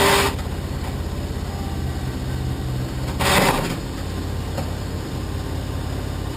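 Toyota Corolla offroad race car's engine running at a steady pitch, with two short loud bursts of noise, one right at the start and one about three seconds in.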